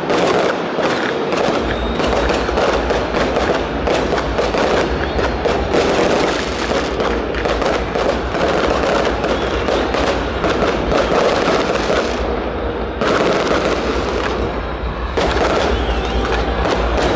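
Fireworks display: a dense, continuous barrage of rapid cracks and bangs, briefly thinning about three-quarters of the way through, over a steady low rumble.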